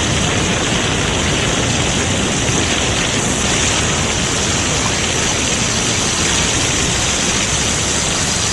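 Steady rushing hiss of water spraying from fire hoses.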